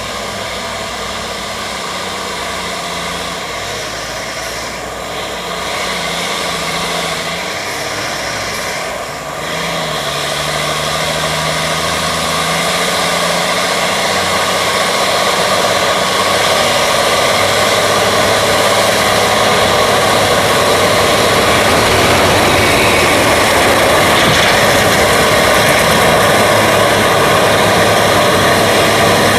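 Heavy logging truck's diesel engine running under load, a brief dip and pitch change about a third of the way in, then growing steadily louder.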